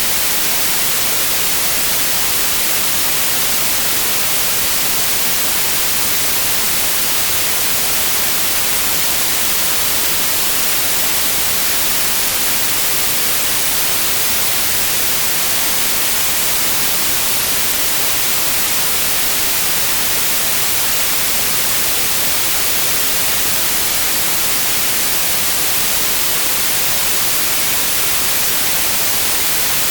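Steady white noise: an even, unchanging hiss across all pitches, strongest in the highs, at a constant level.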